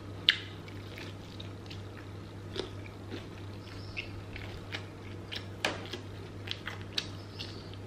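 Close-up chewing of crispy fried chicken: wet mouth sounds with scattered crisp crunches of the breading, the sharpest just after the start and a little before six seconds in.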